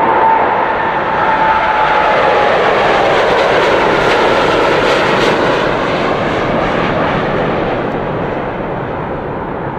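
An airplane's engines passing close by: a loud roar with a whine at the start, swelling to its loudest about four to five seconds in and then fading away.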